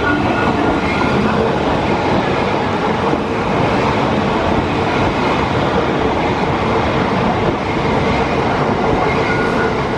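Melbourne suburban electric passenger train passing close by, a loud, steady rush and rumble of wheels on the rails.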